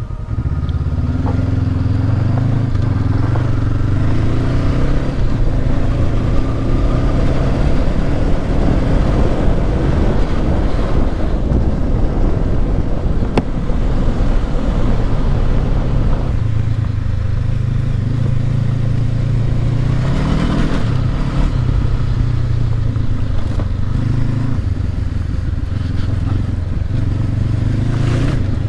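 Twin-cylinder adventure motorcycle engine running under changing throttle while riding off-road, its note rising and falling with one clear rev climbing about twenty seconds in, over heavy rumble and wind noise.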